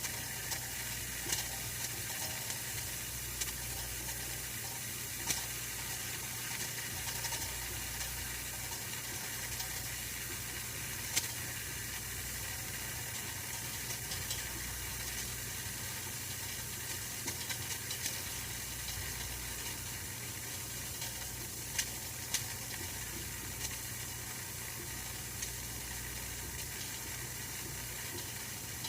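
Oil-filled radiator heater running: a steady hiss over a low hum, with small clicks every few seconds.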